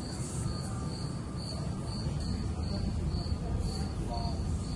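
A cricket chirping in an even rhythm, about two chirps a second, over a steady low rumble.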